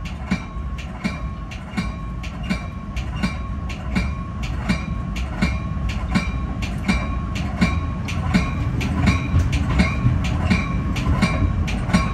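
Metra commuter train rolling along at speed, heard from inside the leading car: a steady low rumble with the wheels clicking over the track in a quick, even rhythm.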